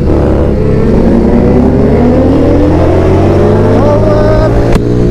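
Motorcycle engine accelerating under load, its pitch rising steadily for a few seconds and stepping up again near four seconds. A brief knock comes near the end.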